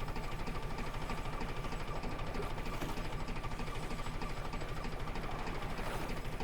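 A steady, low engine-like drone that pulses quickly and evenly, about eight times a second, with a faint high tone held over it.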